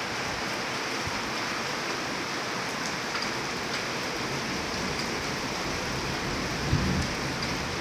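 Steady rain falling, an even hiss of drops with no letup. A brief low thump stands out about seven seconds in.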